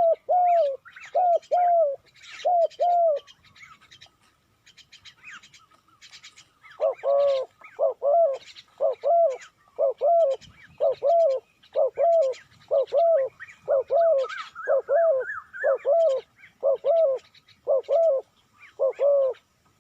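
A dove cooing: a fast run of short, arched coos at about two a second, a few in the first three seconds, then a pause, then a long unbroken series from about seven seconds in. Small birds chirp and twitter high above the coos throughout.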